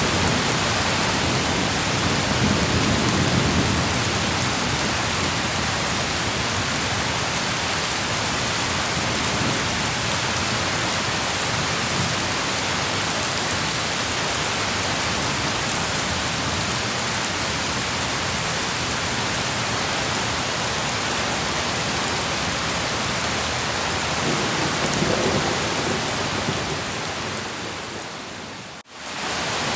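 Steady rain hiss of a thunderstorm, with low thunder rumbling in the first few seconds and again about 25 seconds in. Near the end the sound fades away briefly and comes straight back.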